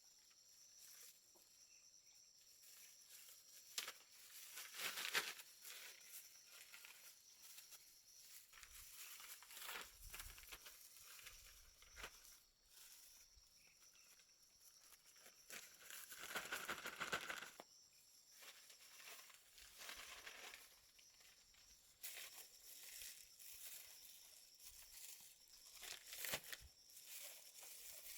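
Faint rustling and crinkling in scattered bursts, loudest about five seconds in, around sixteen to eighteen seconds in, and near the end.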